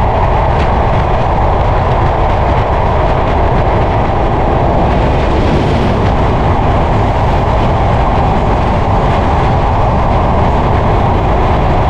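Passenger train running at speed, heard from an open carriage doorway: a loud, steady rush of wheels on rail, with heavy wind buffeting the microphone.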